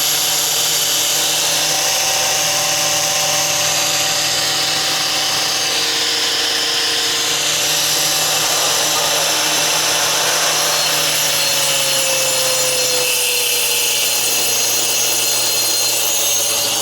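Electric masonry cutting machine running steadily as it cuts brick, a loud whine whose pitch sags slightly about two-thirds through.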